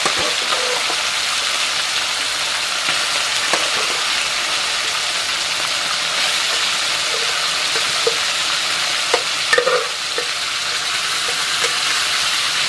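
Marinated chicken pieces sizzling steadily in hot mustard oil in a karai (wok), with a few light clicks as the pieces are stirred.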